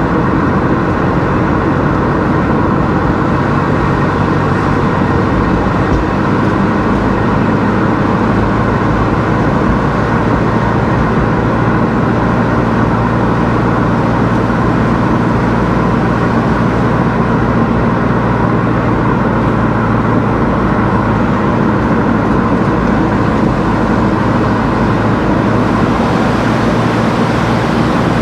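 A car driving at a steady pace: constant engine and road noise with a low, even drone.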